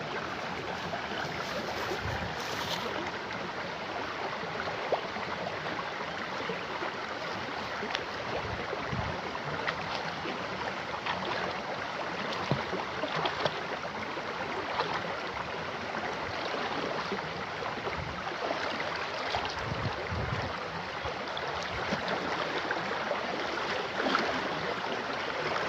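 Mountain river rushing steadily over a stony bed.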